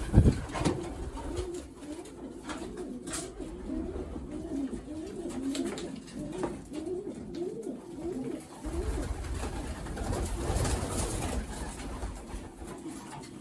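Racing pigeons cooing, a run of wavering, rising-and-falling coos, with scattered sharp clicks. A low rumble comes in partway through.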